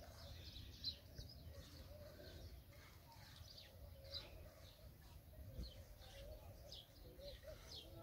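Faint chirping of small birds in a tree: short, high, falling calls about every second, over a low steady background rumble.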